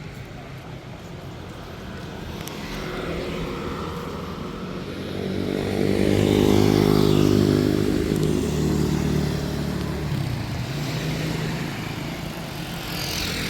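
A motor vehicle's engine passing close by in street traffic: it grows loud about five seconds in, stays loudest for a couple of seconds, then falls away. Another vehicle comes up near the end.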